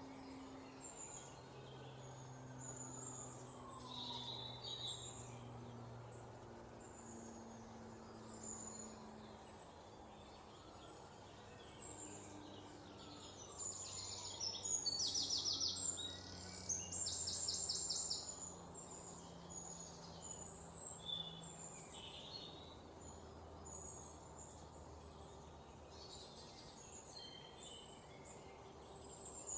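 Mixed songbirds chirping, with many short high calls scattered throughout. About halfway through, a louder run of rapid repeated trilled notes lasts a few seconds.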